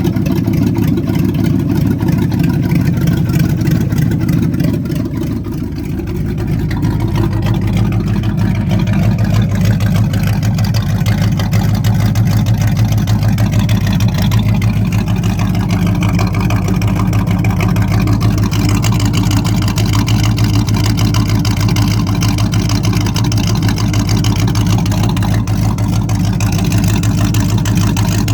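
Chevrolet 283 small-block V8 with a freshly installed Lunati camshaft running steadily on its first start. It eases off slightly about five seconds in, then holds an even, steady run.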